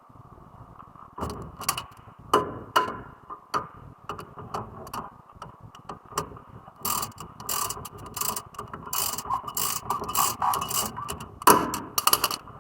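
Ratchet wrench clicking as it is worked back and forth. The clicks are sparse at first and come in quick runs over the second half.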